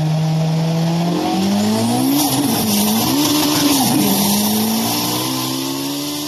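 Sports car engine sound effect: a steady high engine note that from about a second in rises and swings up and down in pitch as it revs, over a rushing hiss.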